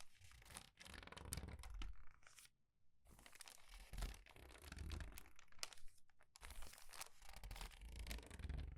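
Crinkled paper pages being turned quickly and squeezed, in a run of crinkling rustles broken by a couple of brief pauses.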